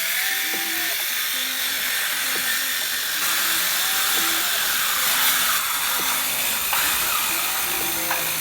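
An electric woodworking power tool running steadily, giving a constant high-pitched hiss.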